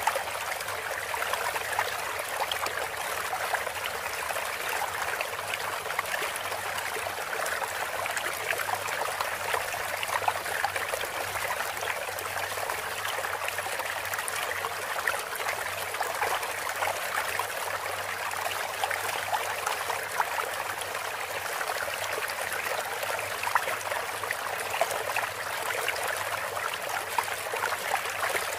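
Running water trickling and splashing steadily, a continuous stream-like rush with small splashes throughout, used as a water-therapy interlude for cage birds.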